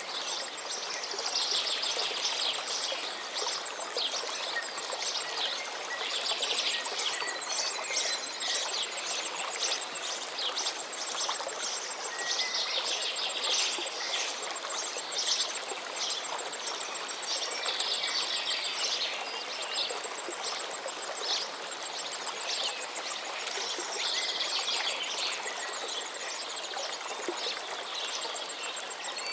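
Small birds singing repeated trilled phrases every five or six seconds over the steady rush of running water.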